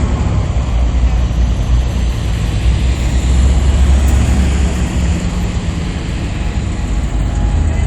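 Low, steady rumble of car engines passing slowly in a parade, growing louder about midway and easing off near the end.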